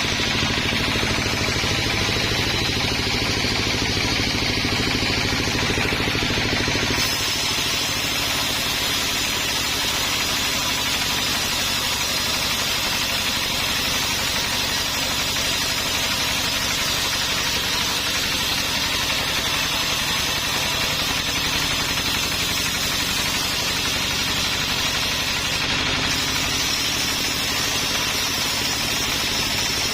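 Sawmill machinery running steadily, a constant engine-like drone. Its tone changes abruptly about seven seconds in and again near the end.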